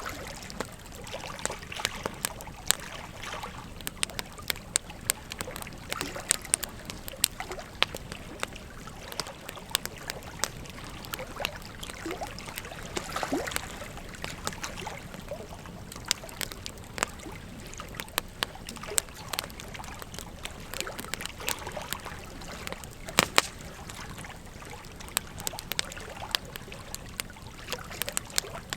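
Wood fire crackling with frequent sharp pops over the steady rush of a river.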